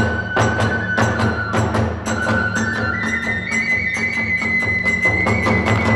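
Kagura hayashi accompaniment: a bamboo transverse flute holds long high notes, stepping up in pitch about two and a half and three and a half seconds in, over hand cymbals clashing about three times a second and steady drumming.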